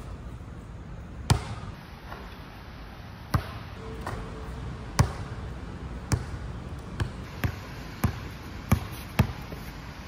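A basketball bouncing on an outdoor court: about nine sharp hits at uneven spacing, coming faster in the second half. A steady low rumble of storm wind runs underneath.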